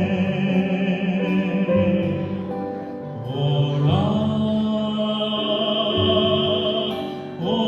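A hymn sung in Korean over instrumental accompaniment: a verse line ends, and about three and a half seconds in the singer starts the refrain on '오라' ('come'), holding it as one long wavering note.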